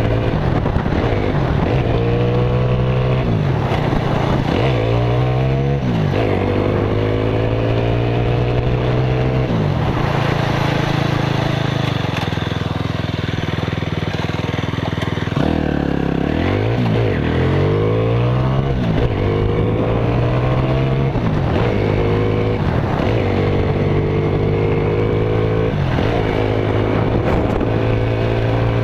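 Motorcycle engine under way, revving up and shifting through the gears: its pitch climbs and drops again at each shift, several times over. About midway through, it holds a steady lower note for a few seconds before pulling up through the gears again.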